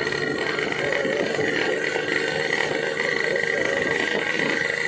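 Yamaha RX-King two-stroke engine with a gutted exhaust running steadily while riding, mixed with wind noise.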